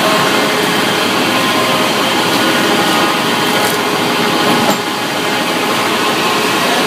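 Sawmill machinery running steadily: a loud, even mechanical noise with a brief dip about five seconds in.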